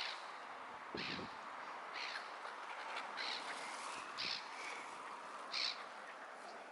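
Birds calling at a pond: short, harsh, high calls repeated roughly once a second over a steady background hiss.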